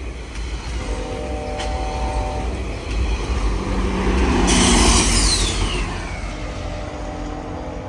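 GO Transit commuter train passing close by: a low rumble builds to a loud rush of wheel and rail noise about four to five seconds in, with a high tone sliding down in pitch as it goes by, then easing off.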